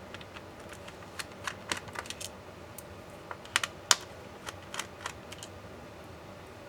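Irregular small clicks and taps of plastic and metal laptop parts and tools being handled during disassembly, with a few sharper clicks between three and a half and four seconds in.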